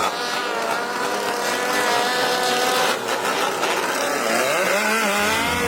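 Engine running at high, steady revs, its pitch dipping and climbing again about four and a half seconds in.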